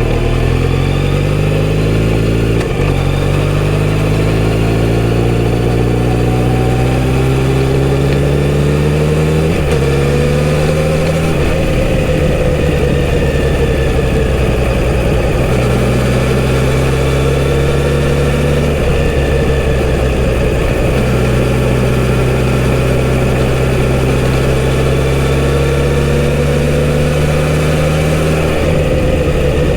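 Kawasaki Z900RS inline-four engine running under way through its full-system exhaust. The pitch climbs through brief breaks at gear changes over the first ten seconds or so, then settles into a steadier run with small rises and falls and a couple more shifts.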